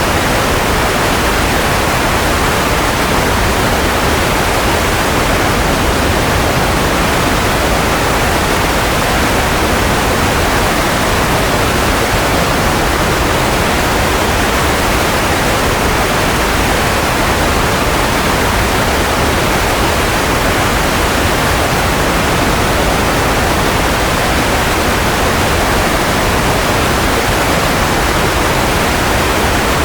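Steady, unchanging white noise of the kind played to lull babies to sleep: an even hiss with most of its weight in the middle range, softer in the highest treble.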